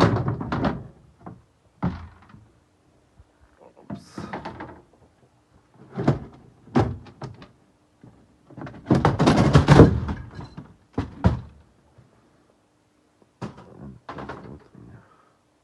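Handling noise from working on an electrical distribution panel: bursts of knocks, clicks and rattles with quiet gaps between, the longest and loudest rattle about halfway through.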